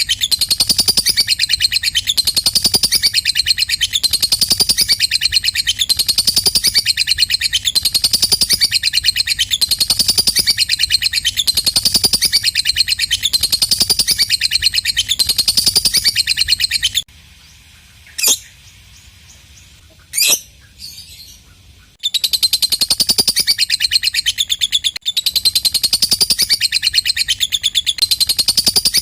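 Lovebird 'ngekek' song: a long, rapid, high chattering trill in phrases that repeat about once a second. It stops about two-thirds of the way through, leaving two lone sharp chirps, then starts again a few seconds later.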